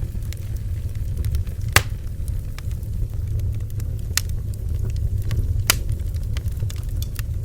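Bonfire burning: wood crackling with scattered sharp pops, the loudest about two, four and six seconds in, over a steady low rumble.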